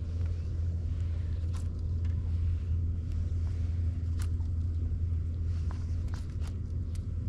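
Steady low hum of a boat motor running, with a few short faint clicks or knocks over it.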